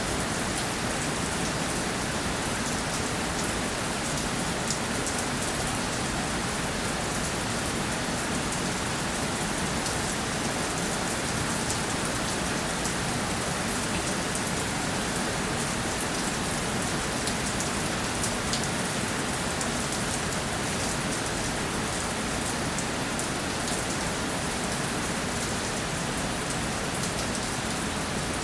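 Steady rainfall, an even hiss of rain on a surface with many fine individual drop patters throughout.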